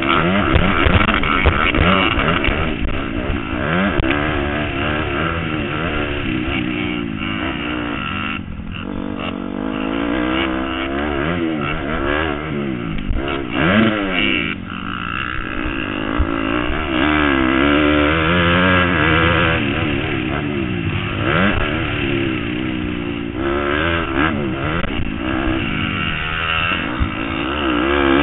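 Motocross motorcycle engine running hard, its pitch rising and falling over and over as the throttle is opened and closed.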